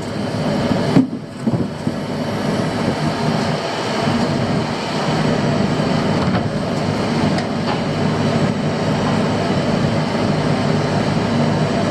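A fishing boat's engine running steadily, a broad rushing noise over a low, even hum, with a short dip about a second in.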